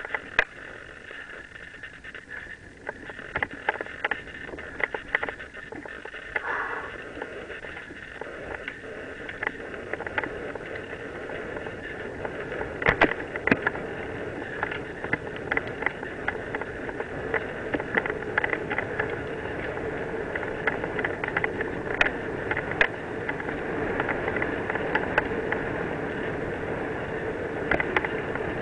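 Mountain bike rolling downhill on a trail: tyre noise and wind on the microphone grow steadily louder, with frequent sharp rattles and knocks from the bike over bumps.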